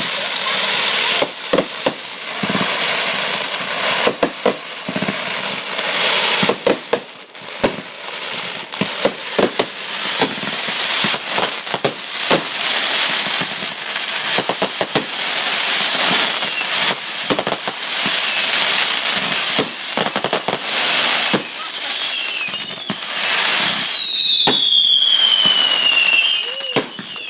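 Backyard consumer fireworks going off: a dense run of crackling and sharp bangs over a steady hiss. Near the end a whistling firework screams, its pitch falling.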